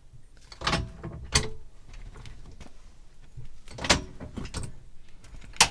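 A car jack being handled and set under the car: about five separate metallic clunks and knocks, some with a short ring, the sharpest near the end.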